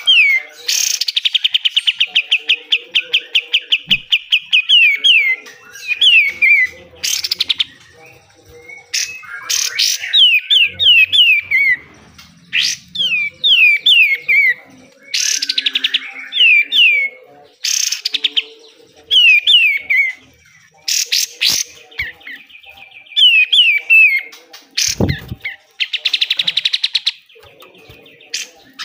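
Kapas tembak (katem) songbird singing in loud bursts: rapid trills of repeated notes alternating with quick runs of down-slurred whistles, the harsh rapid-fire 'besetan' style that kicau keepers prize. A single low thump sounds near the end.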